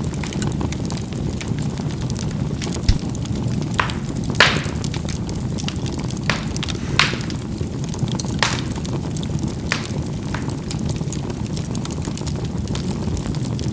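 Charcoal burning in a fireplace: a steady low rumble of flame, with irregular sharp pops and crackles as the coals burst. The loudest pop comes about four and a half seconds in.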